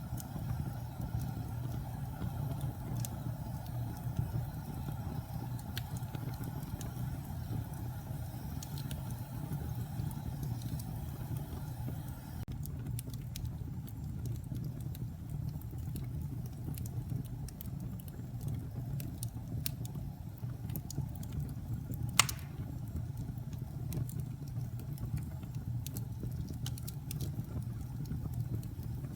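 Wood fire burning in a fireplace: a steady low rumble of flames with scattered sharp crackles, and one louder pop about three-quarters of the way through.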